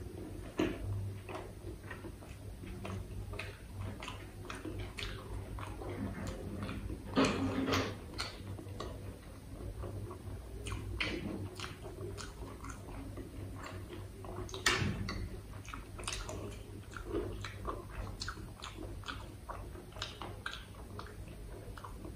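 Close-miked chewing of a mouthful of puri with potato curry, full of wet mouth clicks and smacks, with a few louder ones about seven and fifteen seconds in.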